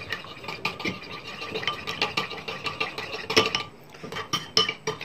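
A metal spoon stirring thick yogurt in a bowl, clinking and scraping against the bowl's sides in a quick, irregular run of clicks that eases off briefly about four seconds in.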